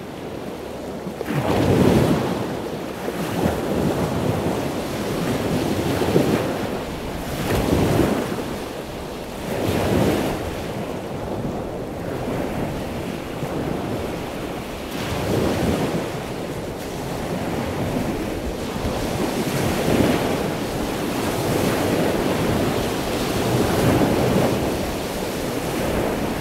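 Ocean waves washing in and out: a steady rushing that swells and falls back every few seconds.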